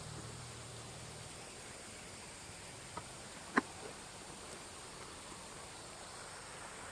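Low steady hiss of quiet outdoor ambience, with a low engine hum dying away in the first second. Two short sharp clicks come about three seconds in, half a second apart, the second louder.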